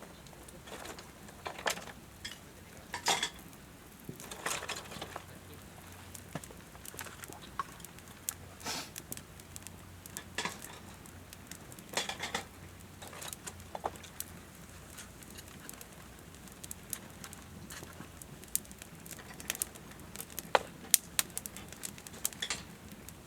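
Scattered clinks and knocks of metal camp gear being handled, with a run of quick sharp crackles from a wood campfire near the end.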